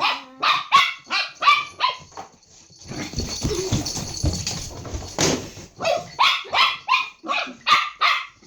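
A dog barking in quick runs of short barks: about five in the first two seconds, then, after a few seconds of scuffling noise with a sharp knock, about eight more in fast succession.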